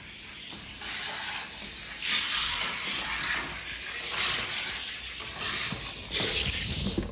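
Hot Wheels Crescendo die-cast car rolling down a toy race track, a continuous rattling run starting about a second in, with louder surges roughly every two seconds.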